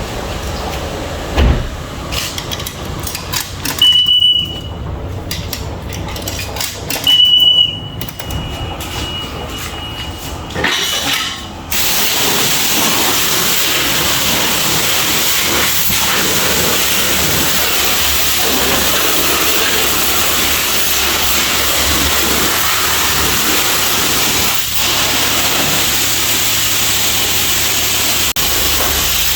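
Irregular knocks with two brief high tones, then about twelve seconds in a self-service car wash's high-pressure spray wand starts and runs with a steady, loud hiss of water spray.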